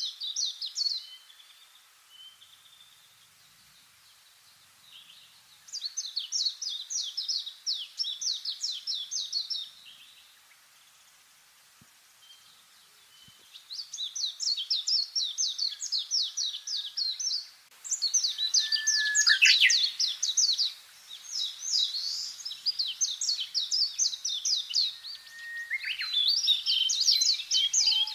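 Songbirds singing: repeated bouts of rapid, high-pitched chirped notes, each bout a few seconds long with short quiet gaps between, and a few lower falling whistles in the second half.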